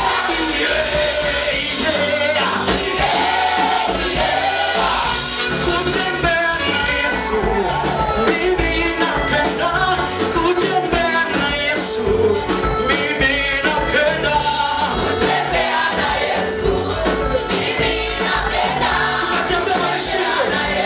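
Live gospel praise music: a group of singers, with instrumental accompaniment and a steady beat.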